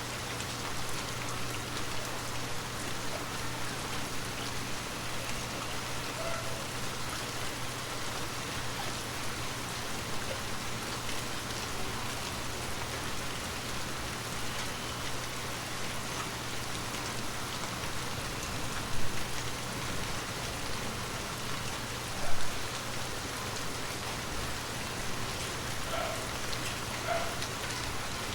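Water drops tapping on a glass surface: a dense, steady patter of small drops, with two louder single drops in the second half.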